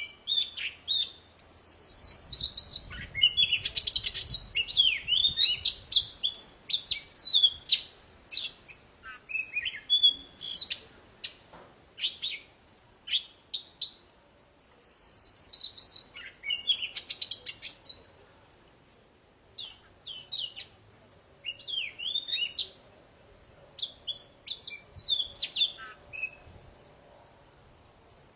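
Oriental magpie-robin (kacer poci) singing energetically: rapid, varied phrases of clear whistles, sweeping glides and sharp chips, broken by short pauses between bursts.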